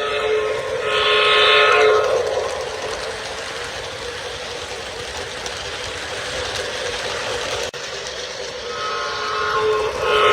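Menards O gauge Union Pacific F-unit model locomotive's onboard sound system blowing a diesel horn, once for about two seconds at the start and again near the end, over the steady running noise of the model train.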